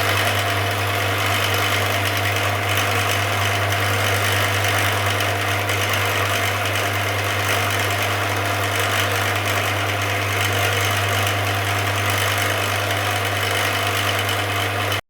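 A machine running steadily, with a strong low hum and a hiss that stay unchanged throughout.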